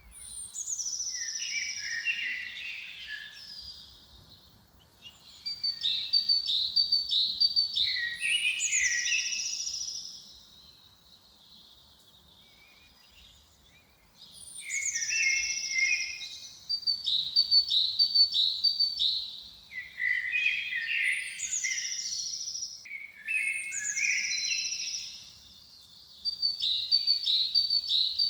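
A songbird singing repeated phrases: each opens with a high falling whistle and runs into quick chirped notes and lower warbles. The song pauses for a few seconds around the middle.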